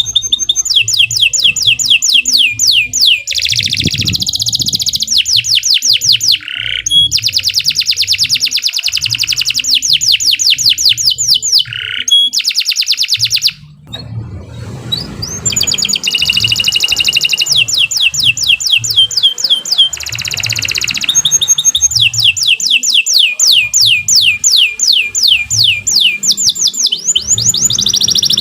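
Domestic canary singing long, rapid trills: runs of fast repeated down-slurred notes in rolling phrases, with a brief break about halfway through.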